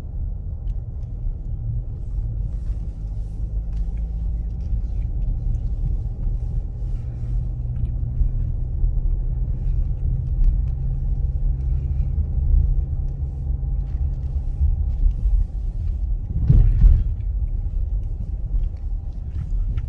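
Car interior road noise while driving on a snow-covered road: a steady low rumble of engine and tyres, heard from inside the cabin, with a brief louder rush about three-quarters of the way through.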